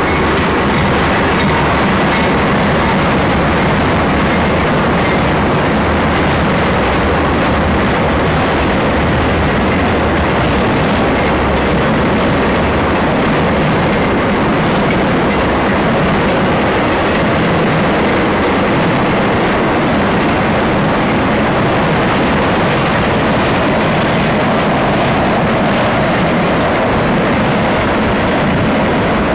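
BNSF intermodal freight train passing close by: a loud, steady rumble of steel wheels rolling on the rails.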